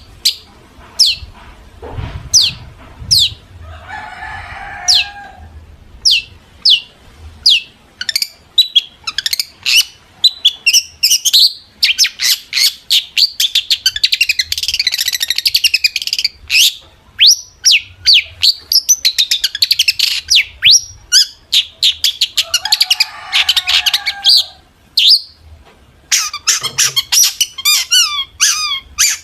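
Long-tailed shrike singing hard: a fast string of sharp, high down-slurred notes and rapid repeated chips, broken twice by a harsh, raspy chatter, about four seconds in and again near twenty-three seconds.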